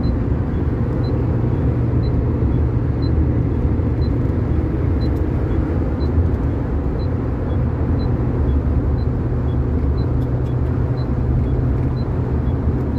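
Steady low rumble of a car in motion heard from inside, with a faint tick about twice a second that alternates between two pitches.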